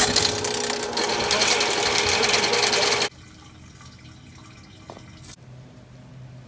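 A small motor-driven machine running with a fast mechanical clatter, then cutting off abruptly about three seconds in.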